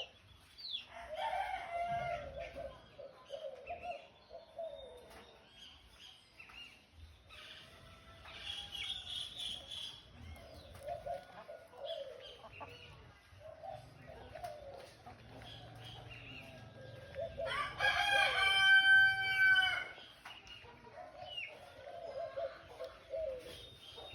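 Chickens clucking on and off, with a rooster crowing once, loud and long, about eighteen seconds in. Small birds chirp now and then.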